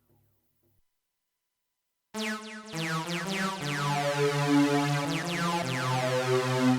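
Jeannie polyphonic DIY synthesizer: the last notes of one patch die away, then after a short silence a bright, buzzy patch starts suddenly about two seconds in, stepping through a line of low notes with a repeated sweeping sound over them.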